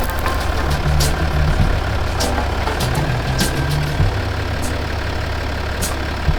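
Land Rover Discovery 4 running, a steady low engine and road rumble with a sharp tick about every second.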